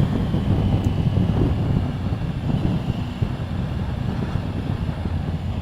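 Motorcycle engine running steadily while riding, with wind rushing over the onboard microphone.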